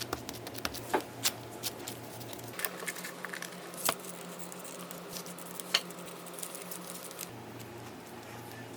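Scattered light clicks and taps of kitchen utensils and food being handled while a rice cake is assembled, a few sharper knocks among them, over a low steady hum.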